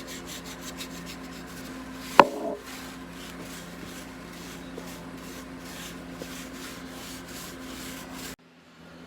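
Repeated scratchy rubbing strokes on an old wooden picture frame as paint is worked into it for an antiqued finish, with one sharp knock about two seconds in. A steady low hum runs underneath, and the sound cuts off suddenly near the end.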